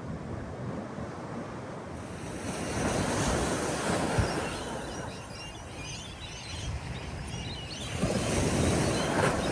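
Small waves from a calm sea washing onto a beach, swelling twice, with seagulls calling faintly over the surf in the middle.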